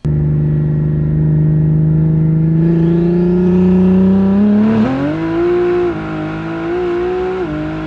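A BMW G80 M3's S58 twin-turbo inline-six accelerating hard at full throttle, heard from inside the cabin. The engine note climbs steadily, jumps up in pitch about five seconds in, then dips briefly twice near the end as it shifts gears.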